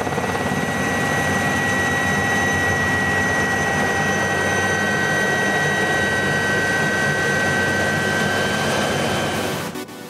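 Aérospatiale SA 315B Lama helicopter running, its Turbomeca Artouste turbine giving a steady high whine over the rotor and engine noise; the whine sags slightly in pitch after the middle. The sound drops away sharply shortly before the end.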